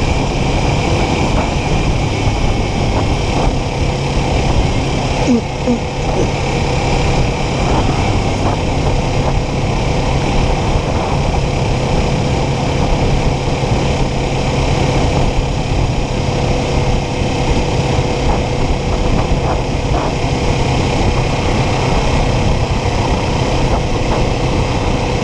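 Kawasaki Ninja 400 motorcycle's parallel-twin engine running at a steady pitch under an even rush of wind and road noise at the rider's microphone.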